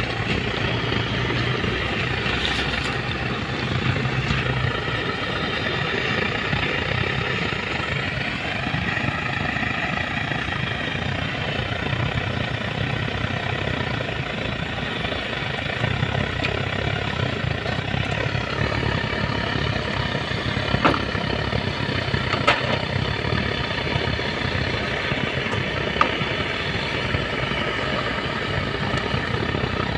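Diesel engine idling steadily, with a few short sharp clicks about two-thirds of the way through.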